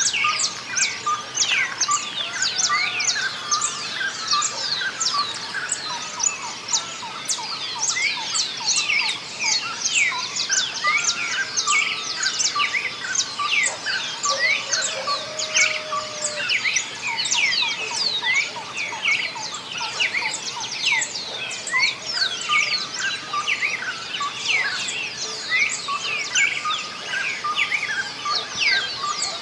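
A dawn chorus of many songbirds singing at once: a dense, continuous mass of quick, high, downward-sweeping chirps, with a few longer, lower whistled notes mixed in.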